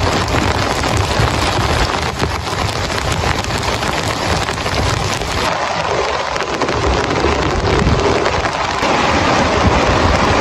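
Heavy rain falling steadily, a dense patter of drops with a low rumble underneath.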